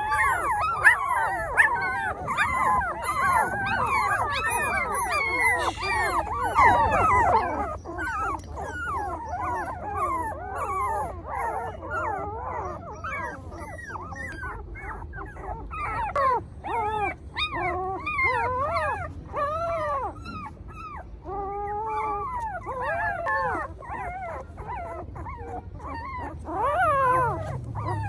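Several puppies whimpering, yipping and howling at once in many overlapping high calls, busiest in the first several seconds and thinning out after.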